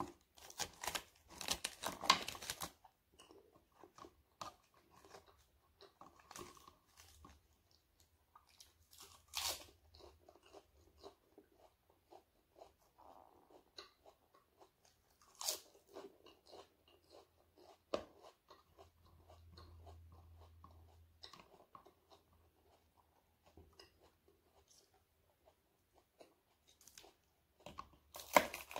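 Close-up eating sounds: chewing of crispy fried dried fish and raw cabbage leaves, with sharp crunches as bites are taken. The crunching is loudest and densest in the first three seconds and again near the end, with softer chewing and a few single crunches in between.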